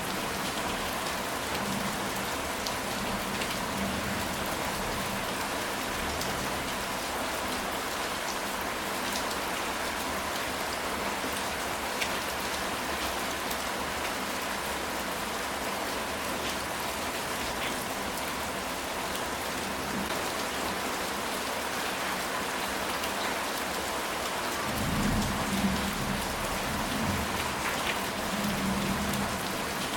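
Steady rain falling on a ceramic tile roof, with many separate drops ticking through the even patter. A low rumble of thunder swells up near the end.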